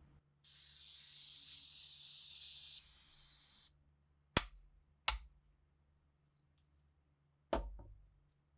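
A spray hissing steadily for about three seconds, then three sharp knocks, the last one heaviest.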